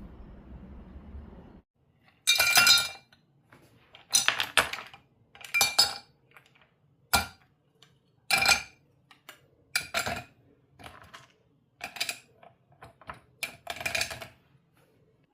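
Dishes and cutlery clinking and clattering in about a dozen separate knocks, some with a short ring, as they are handled. A low rumble stops about a second and a half in, before the clinks begin.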